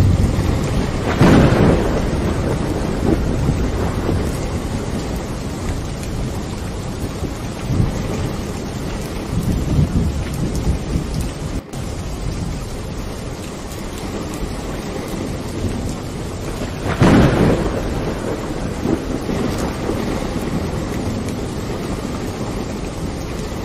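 Steady rain with rolling thunder: a strong rumble about a second in and another about two-thirds of the way through, with fainter rumbles between.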